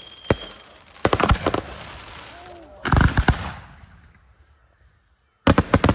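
Display fireworks going off: single sharp bangs, then rapid clusters of loud reports, the heaviest burst about halfway through with a low rumble, and another quick cluster near the end.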